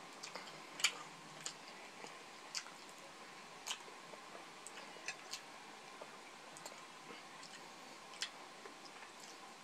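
Chewing on grilled skewered street food (chicken and pork intestine, pig's ear), with scattered short, sharp mouth clicks and smacks, the loudest about a second in.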